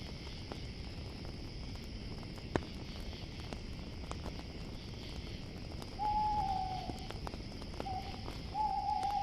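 An owl hooting: a long note that sags slightly at its end about six seconds in, a short note, then another long note near the end. Under it runs a steady high chirring of crickets, with the crackle and an occasional sharp pop of a campfire.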